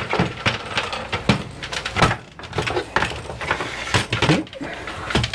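Caravan window blind frame being slid out and handled: a run of irregular knocks, clicks and scrapes.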